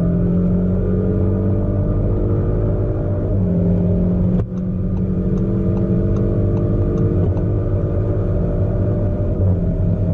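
ABT-tuned Audi SQ5 accelerating hard under load, the engine and exhaust note climbing steadily in pitch, broken by a quick gear change about four and a half seconds in, then climbing again with another shift near the end.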